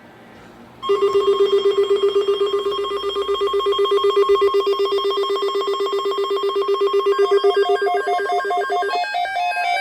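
A rapidly pulsing electronic tone at one steady pitch, the opening of a video intro, starts about a second in. Near the end it gives way to stepping, changing higher tones as intro music begins.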